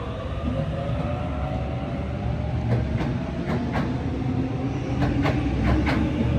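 A Sydney Trains Waratah A-set electric train arriving at a platform. Its traction motors give a gliding whine, and after a few seconds a run of sharp clicks, mostly in pairs, comes as the wheels cross rail joints.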